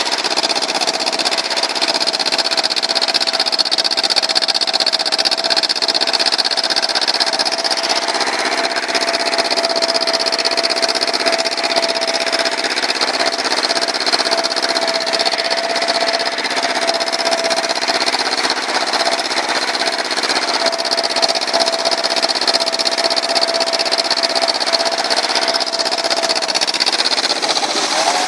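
An engine running steadily at one speed, its pitch shifting right at the end.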